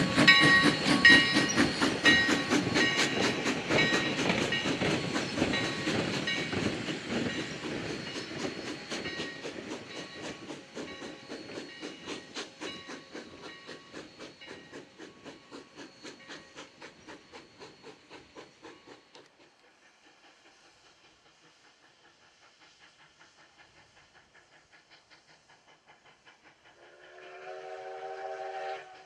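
Sierra No. 3, a 4-6-0 steam locomotive, running with a fast rhythmic beat of exhaust and clatter that fades steadily as the train draws away, dying to near quiet. About two seconds before the end its steam whistle starts, sounding a chord of several notes.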